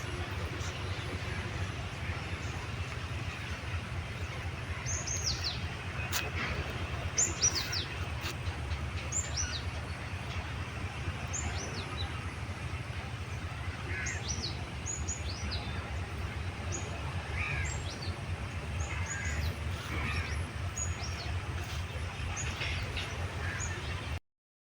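Birds chirping: many short, high chirps that fall in pitch, scattered throughout, over a steady low rumble. Everything cuts off suddenly near the end.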